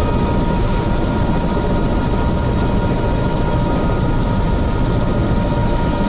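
Helicopter heard from inside the cabin in flight: a steady rotor and engine drone with a steady high whine on top.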